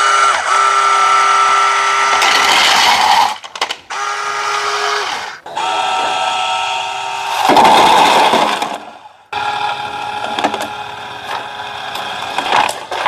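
Small electric motors and plastic gearboxes of radio-controlled model trucks whining in several runs that stop and start again, with a louder, rougher surge about eight seconds in and light clicking near the end.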